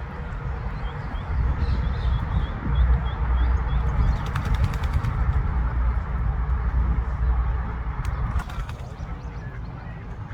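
Ducklings peeping: a quick run of short, high calls, a few a second, in the first few seconds, over a steady low rumble, with a few sharp clicks around the middle and near the end.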